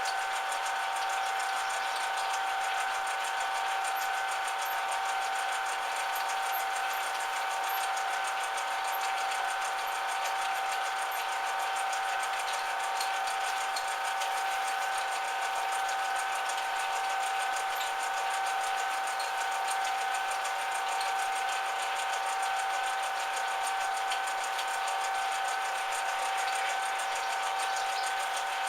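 Metal lathe running steadily, its motor and gearing giving a constant whine of several held tones.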